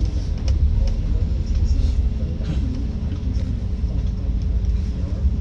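A Scania K310UD double-decker bus's engine running, heard from inside the bus as a steady low rumble with a faint steady hum. Light rattles and clicks from the bus body come through now and then.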